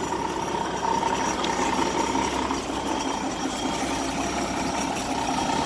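REO-built US6 army truck's Hercules JXD inline-six engine idling steadily and quietly, running smoothly on a freshly rebuilt Carter 565-S carburetor.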